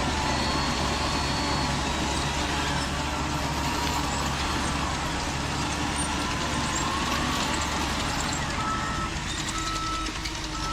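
A model truck's engine sound runs steadily. Near the end a reversing beeper starts, giving short high beeps about every 0.7 seconds.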